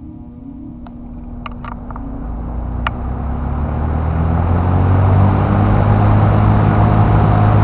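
1973 Eskimo 20-inch box fan starting up: a low motor hum under a rush of air that grows louder over about five seconds as the blades come up to speed, then holds steady. A few light ticks come in the first three seconds.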